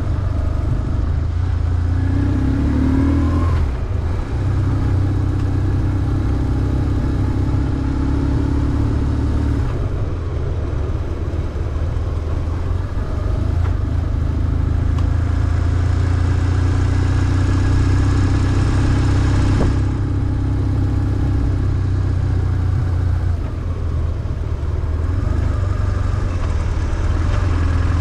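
BMW R1150GS motorcycle's flat-twin boxer engine running steadily as the bike is ridden. Its pitch rises briefly about three seconds in.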